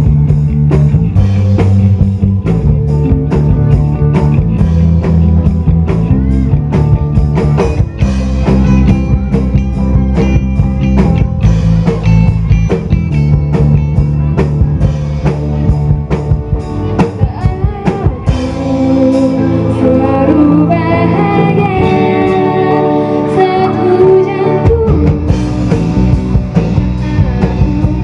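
Rock song played by a band: drum kit, bass and guitars with singing. About two-thirds of the way through, the bass and kick drop out for several seconds while a higher melodic line carries on alone, then the full band comes back in.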